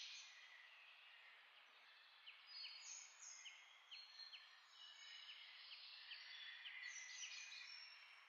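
Faint birdsong: short chirps repeated over and over above a steady hiss.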